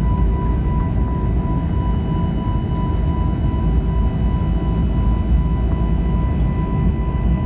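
Airbus A321neo's Pratt & Whitney PW1100G geared turbofan engines running steadily, heard from inside the cabin: a deep rumble with a steady whine over it.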